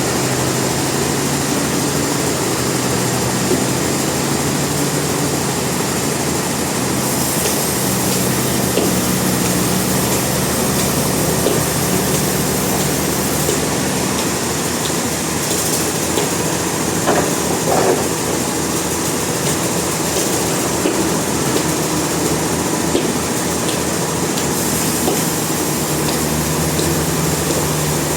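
Sawmill machinery running steadily, an engine hum whose pitch shifts slightly now and then, with a few light knocks about two-thirds of the way through.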